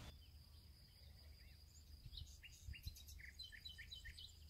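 Faint birdsong: a quick run of short chirps through the middle, over a steady faint high tone and a low rumble.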